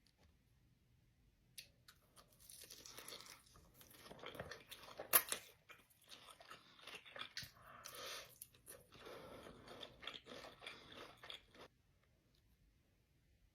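Close-miked chewing and crunching of crispy food, starting about two seconds in and stopping shortly before the end, with one loud crunch about five seconds in.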